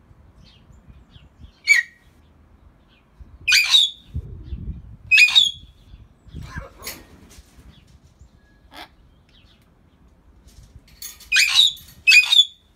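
Greater hill mynahs giving a series of short, loud squawks and whistles a second or more apart, with two coming close together near the end.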